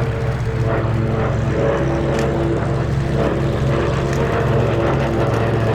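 Piston-engined propeller aircraft flying a display pass, its engine drone steady and loud with a slight pulsing.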